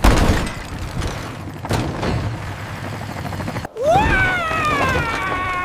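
Cartoon sound effects: a loud boom-like impact, a smaller hit under a rumbling noise, then after a brief cut a long drawn-out cry that rises and then slowly falls in pitch.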